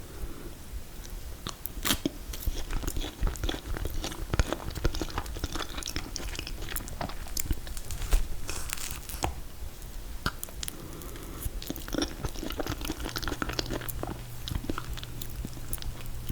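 Close-up eating sounds of mint chocolate chip ice cream cake: wet chewing, lip smacks and bites in an irregular stream of small clicks and crunches. A low steady hum comes in near the end.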